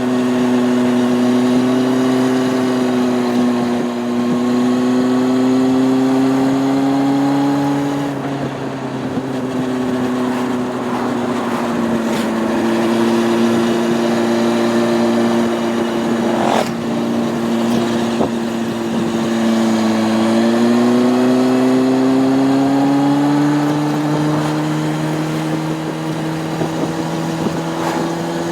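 Honda CB600F Hornet's inline-four engine running at steady road speed under wind and road noise. The revs ease off and drop about eight seconds in, hold steady, then climb again about two-thirds of the way through.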